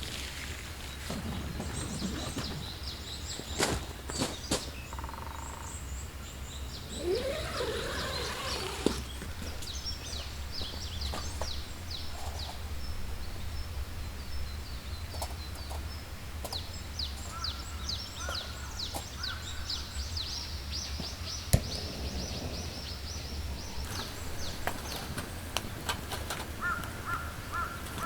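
Forest birds chirping and singing, many quick high calls overlapping through the whole stretch, over a steady low hum. A few sharp taps stand out, the loudest about twenty-one seconds in.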